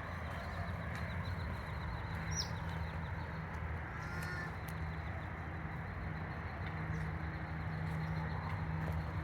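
Outdoor garden ambience: a steady low rumble with a few brief bird calls, one at about two and a half seconds in and another at about four seconds in.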